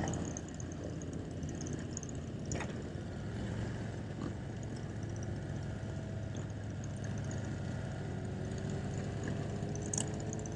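Harley-Davidson V-twin motorcycle engine running steadily while riding at low speed, with a constant low hum, rising slightly in pitch near the end.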